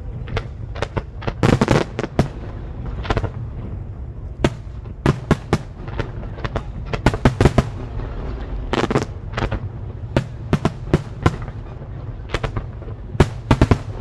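Fireworks display going off: sharp bangs and crackles in irregular, rapid clusters over a steady low rumble.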